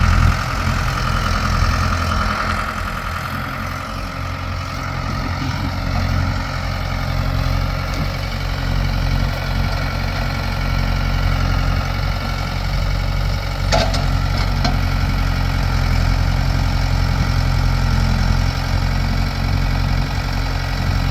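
Old backhoe's engine running steadily under its hydraulic digging work, with one short knock about two-thirds of the way through.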